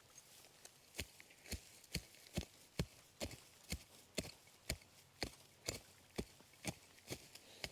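A digging tool chopping into heavy clay soil in steady, evenly spaced strokes, about two a second, starting about a second in.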